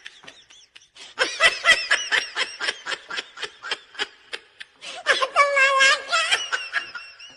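A person laughing hard in rapid breathy pulses, about five a second, breaking into a long high-pitched squeal about five seconds in.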